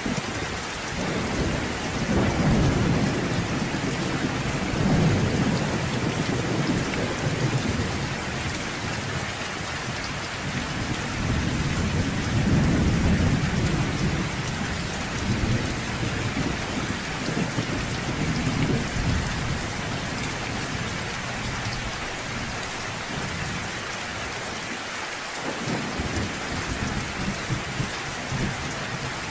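Steady rain falling, with rolling thunder rumbling low several times: long swells peak about two to seven seconds in and again around twelve to fourteen seconds, with a lighter roll near eighteen seconds.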